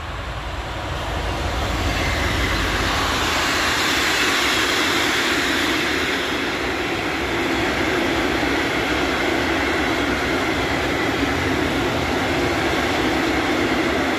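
A freight train of open coal wagons behind a Class 66 diesel locomotive running past, with steady noise from the wheels on the rails. The noise grows over the first two seconds, then holds steady.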